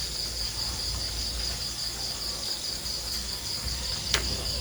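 A steady, high-pitched insect chorus of crickets or similar insects, shrilling without a break. There is a single sharp click about four seconds in.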